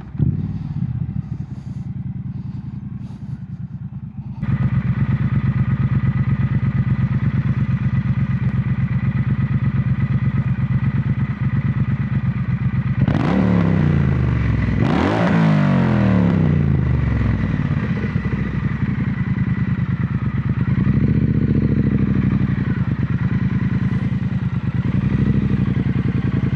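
Triumph Bonneville T120 parallel-twin on Hitchcock slip-on exhausts, running on the road under way, heard from a microphone inside the rider's helmet with wind noise. About four seconds in the throttle opens and it gets louder. Around the middle the engine note sweeps down and back up through gear changes, and again near the end.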